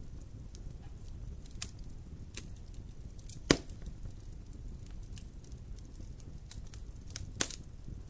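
Wood fire in a fireplace crackling over a steady low rumble, with scattered snaps and two loud pops, the loudest about three and a half seconds in and another near the end.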